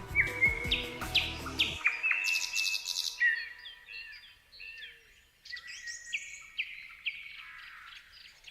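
Songbirds chirping and calling: many short whistled notes, some sliding down in pitch. A low steady background sound runs under the first two seconds and cuts off abruptly, leaving only the birds.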